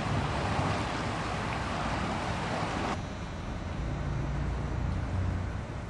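A steady rushing noise that cuts off abruptly about three seconds in, followed by a quieter hiss with a low engine-like rumble.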